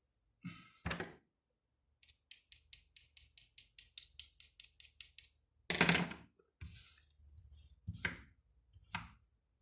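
Small hand tools being handled on a workbench: a couple of knocks, then a quick run of light, sharp ticks about five a second, then several louder clatters.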